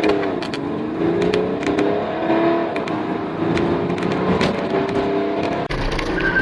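BMW E90-family 3 Series turbo-diesel engine under hard acceleration. Its pitch climbs and falls back at each of several gear changes, with sharp clicks scattered through. A different run cuts in near the end.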